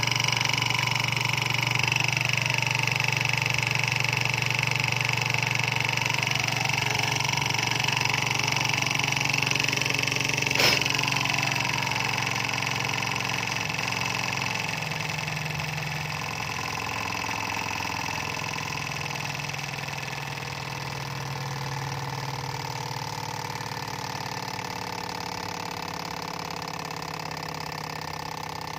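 Stirling engine running steadily with a continuous mechanical whirr. A single sharp click comes about eleven seconds in, and the sound gradually grows quieter over the second half.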